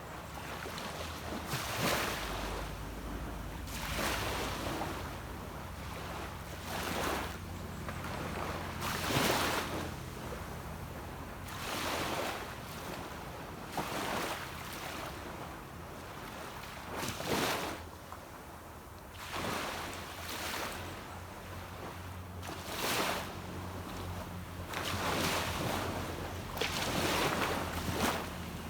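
Small sea waves breaking and washing up onto a beach, one surge every two to three seconds, over a low steady rumble.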